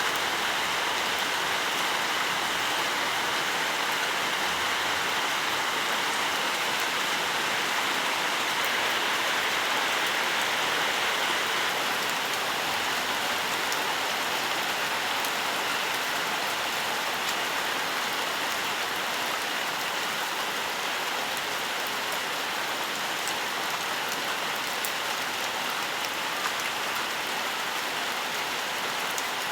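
Steady rainfall in a forest, a dense even hiss of rain with scattered tiny drop ticks on top.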